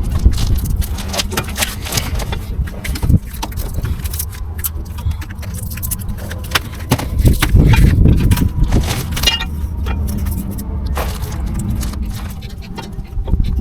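Repeated metallic clinks and knocks, scattered through the whole stretch, over a low steady rumble.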